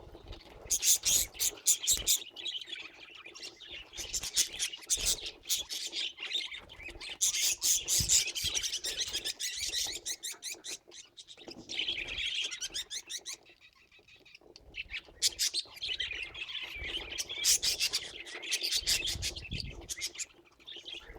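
Budgerigars chirping and chattering in quick bursts, with short pauses between bursts.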